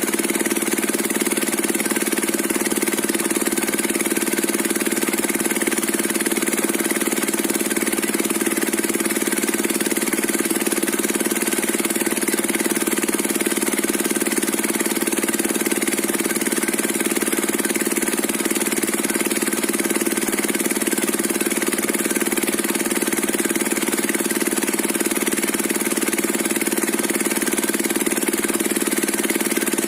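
Diesel engine driving a circular saw rig, running at a steady pitch with no change in speed.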